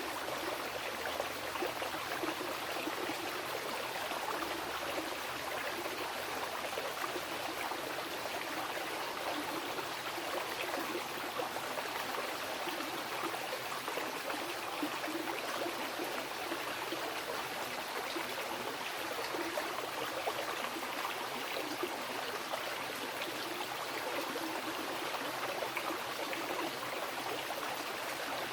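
A mountain river flowing and rushing over rocks, a steady, dense rush of water that holds even throughout.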